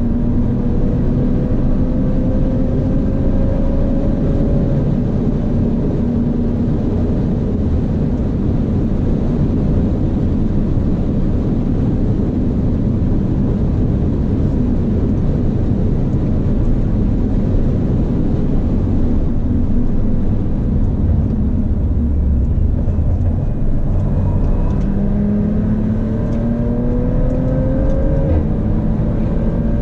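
Inside the cabin of an Audi B9 RS4, its 2.9-litre twin-turbo V6 with a Milltek exhaust runs hard under load, with its pitch slowly climbing, over steady road and wind noise. About twenty seconds in it eases off as the car slows for a corner, then its pitch rises again near the end as it accelerates out.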